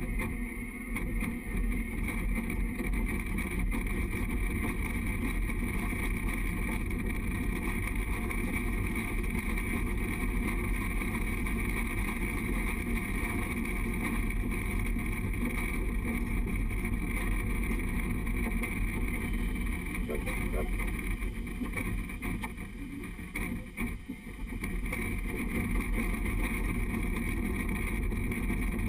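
Steady rumble of a narrow-gauge train rolling along the track, heard from the front of the moving train, with a brief dip in loudness a little past the middle.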